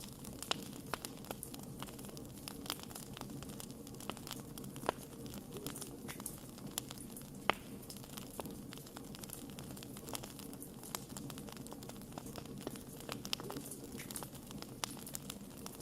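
Wood campfire crackling: frequent irregular pops and snaps over a steady low rush of burning, with one sharper pop about halfway through.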